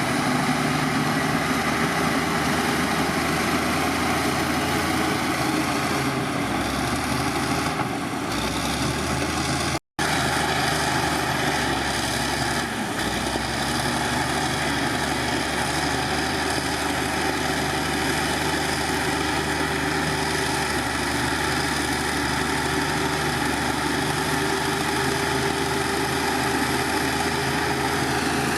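Heavy diesel engine of earthmoving machinery running steadily with a low hum, with a split-second break in the sound about ten seconds in.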